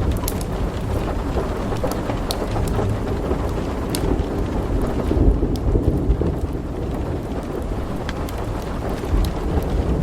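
Steady heavy rain with thunder rumbling low throughout, swelling about halfway through. A few sharp crackles of a wood fire sound now and then.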